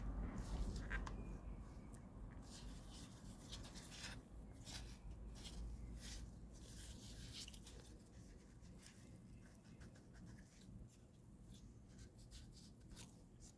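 Faint scraping, rubbing and light clicks of hand work on parts, irregular and busiest in the first half, over a low rumble.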